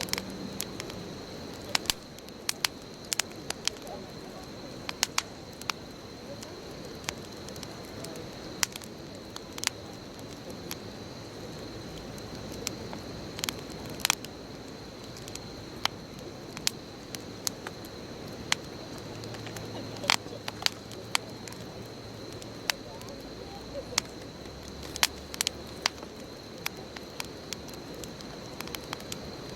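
Wood bonfire crackling, with sharp irregular pops, several a second at times, over a steady hiss.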